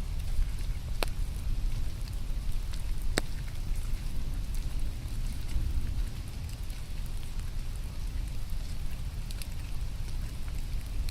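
Rain falling, with scattered drops ticking over a steady low rumble. Two sharp clicks come about one and three seconds in.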